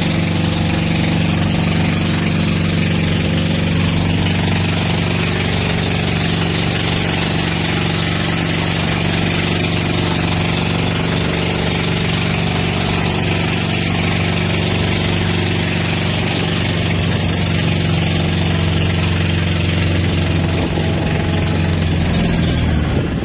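An engine running steadily at one speed: a constant low hum with a hiss above it, unchanging throughout.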